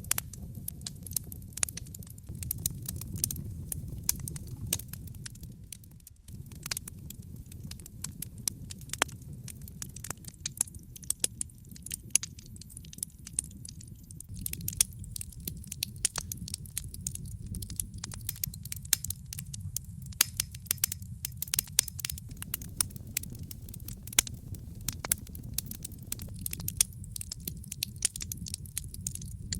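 Wood fire burning in a fireplace, crackling and popping at irregular intervals over a steady low rumble.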